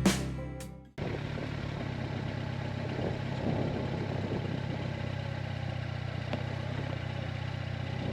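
A strummed-guitar music track cuts off about a second in; then a motorcycle engine idles steadily.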